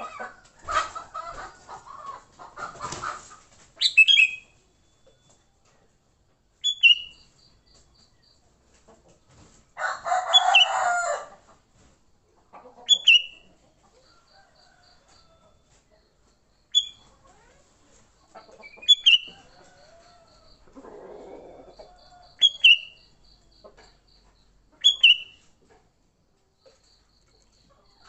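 Sooty-headed bulbul giving short, sharp calls every two to three seconds: the kutilang's fighting call, as used to lure the species. A longer, harsher sound comes about ten seconds in, and a faint rapid ticking sounds between the calls.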